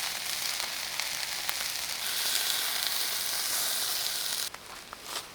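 Sausage and peppers frying in a pan over a campfire, a steady sizzle with a few sharp pops. The sizzle grows louder about two seconds in and drops off abruptly near the end.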